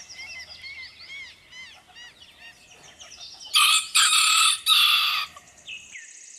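Rooster crowing once, a loud cock-a-doodle-doo in about three joined parts, starting about halfway through and lasting under two seconds. Faint chirping of small birds runs underneath.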